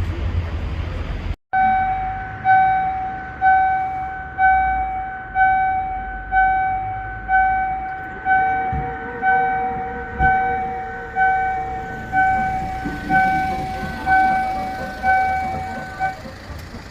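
Railway level-crossing warning bell ringing about once a second, each ding starting sharply and fading quickly. It follows a low rumble that cuts off abruptly, and a fainter steady horn-like tone joins for a few seconds midway.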